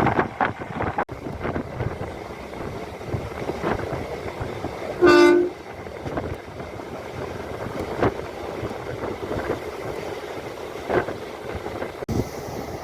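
MEMU electric local train running, with clatter and knocks, and one short horn blast about five seconds in.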